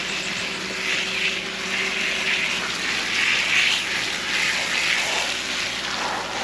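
Water from a hose spraying and splashing in surges, rinsing soap out of a dog's coat. A steady low hum underneath fades out about two seconds in.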